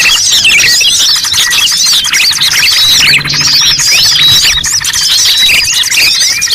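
Dense, unbroken chatter of rapid high chirps and squealing calls from small songbirds: a bird-trapping lure call meant to draw in prinias and other small wild birds.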